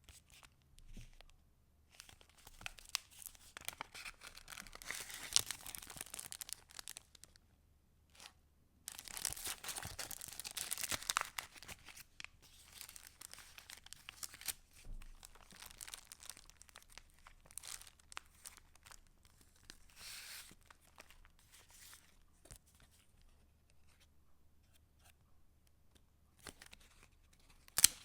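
Paper rustling and crinkling as the pages and paper pieces of a handmade junk journal are turned and handled. There are two longer stretches of dense rustling in the first half, then lighter, scattered rustles and a sharp tick near the end.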